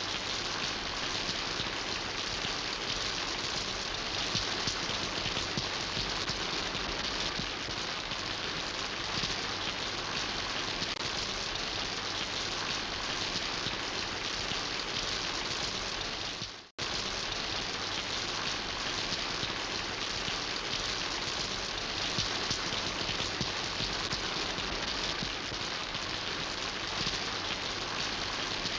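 Steady rain falling, an even hiss of many drops hitting a surface. It cuts out for an instant about two-thirds of the way through, then carries on unchanged.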